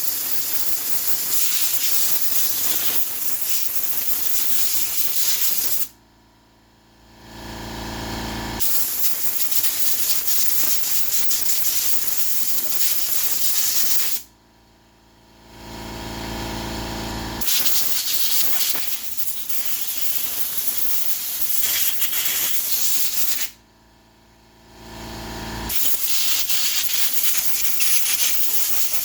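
Compressed-air blow gun hissing in long blasts, blowing water off freshly washed air filter parts to dry them, stopping three times for a couple of seconds each.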